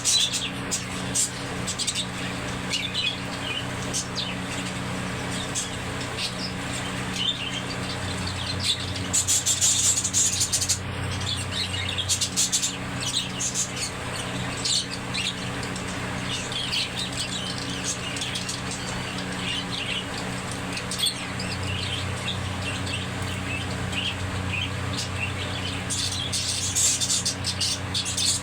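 Budgerigars chirping and chattering continuously, with busier bursts of calls about a third of the way in and near the end, over a steady low hum.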